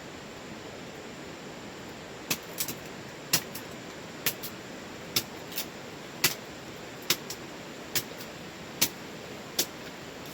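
A series of sharp, short knocks, roughly one a second, starting about two seconds in, over a steady hiss.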